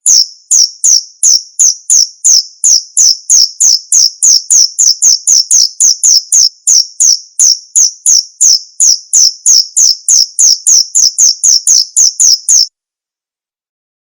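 Male 'bos' cricket chirping its song: loud, high-pitched chirps at about three a second, stopping abruptly near the end.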